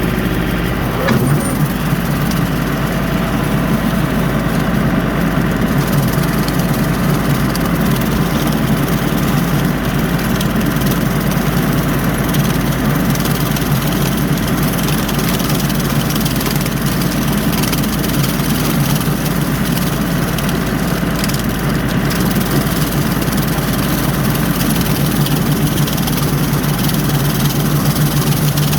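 John Deere 3043D compact tractor's diesel engine running steadily, driving a 4-foot bush hog (rotary cutter) while mowing.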